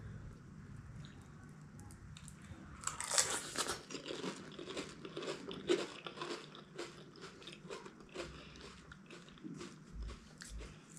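Crisp pani puri (golgappa) shells crunching as they are bitten and chewed close to the microphone. The crunching starts about three seconds in, loudest at the first bite, then carries on as a run of irregular crackly crunches and wet mouth sounds.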